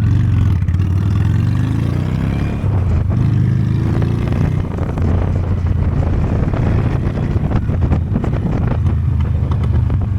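Honda Steed V-twin motorcycle engine pulling away and then running steadily under way, its pitch rising through the first couple of seconds.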